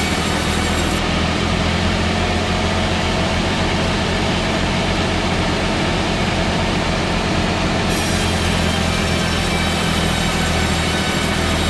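A machine running steadily: a constant motor or engine hum with a dense, even noise over it and no change in speed.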